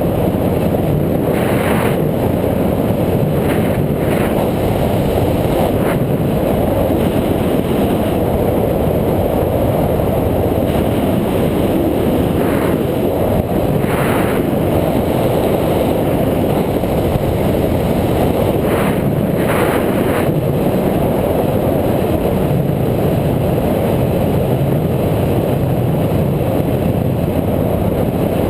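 Loud, steady rumble of riding noise, wind and road, picked up by a GoPro camera on a moving bike, with a few short rattles.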